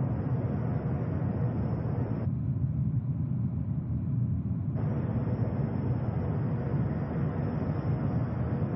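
Steady low rumble of jet aircraft engines. The higher hiss cuts out abruptly about two seconds in and comes back near the five-second mark.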